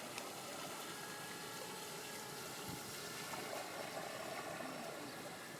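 Radio-controlled twin-motor scale model boat (Riva Rama replica) running on a pond at low power, a steady wash of water around the hull with a faint motor hum, a little louder about three and a half seconds in.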